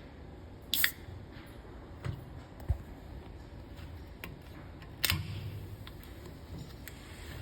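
A few scattered sharp clicks and knocks over low background noise, the loudest about five seconds in.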